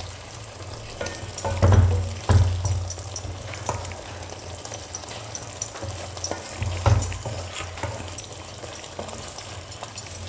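Thickened chicken curry sizzling in the pan while it is stirred, with several sharp knocks and scrapes of the stirring utensil against the pan.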